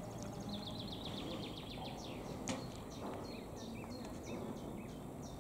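Songbirds singing: a fast trill of high, quickly repeated notes in the first two seconds, then scattered high chirps, over a faint steady background. A single short click about two and a half seconds in.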